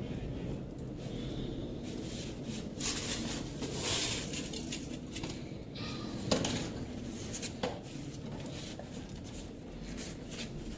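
A few light knocks and clinks on a bowl, two sharper ones in the second half, over a steady low background rumble.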